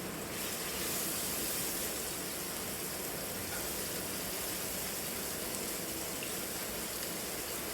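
Wagyu beef filets searing in a hot pan of olive oil: a steady hiss of sizzling that starts as the steaks go in and holds even.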